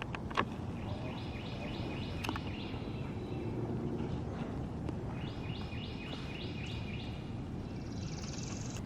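A songbird calling in two runs of quick, repeated rising-and-falling notes, over a steady low background of outdoor noise. A short, high buzzy trill comes near the end.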